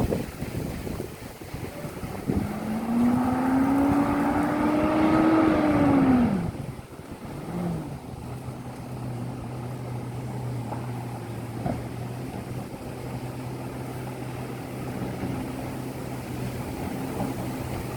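Garbage truck engine speeding up for a few seconds with a rising whine, then dropping back to a steady idle hum.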